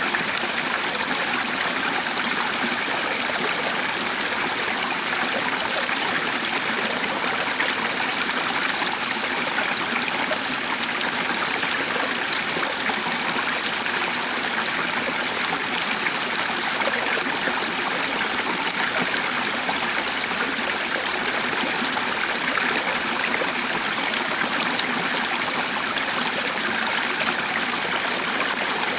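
A stream running steadily, an even, unbroken rush of flowing water.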